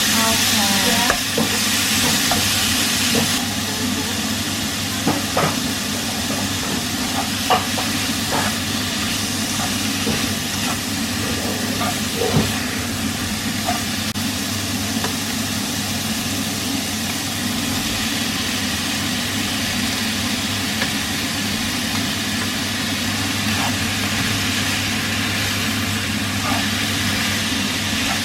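Stir-frying in a pan: steady sizzling, with the short taps and scrapes of a spatula, over a steady low hum. The hiss is louder for the first few seconds.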